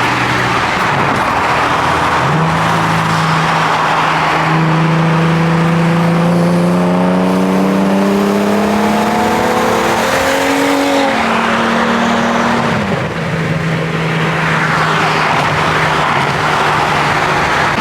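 Car engine and exhaust pulling steadily, its note climbing slowly for about ten seconds, then dropping sharply as the throttle is let off and settling into a steady cruise, over a constant loud rush of road and exhaust noise.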